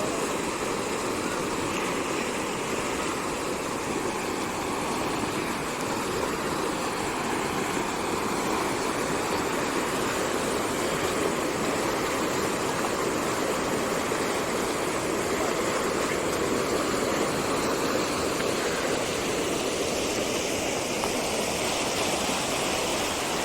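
Rain-swollen seasonal stream running full after heavy rain: a steady rush of flowing water, unbroken and even.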